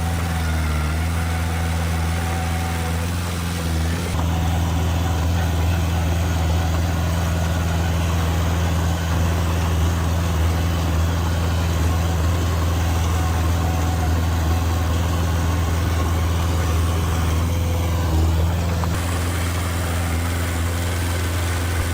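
Heavy diesel engine of earthmoving machinery running steadily at a low, even speed.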